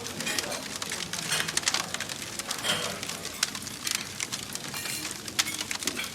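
Wood fire crackling in a fireplace: dense, irregular snaps and pops over a soft steady hiss.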